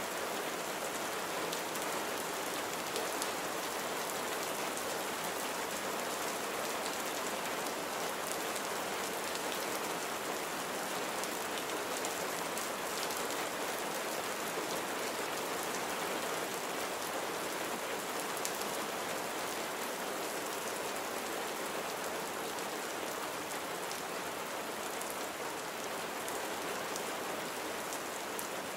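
Steady rain falling and pattering on surfaces, an even hiss with scattered faint drop ticks.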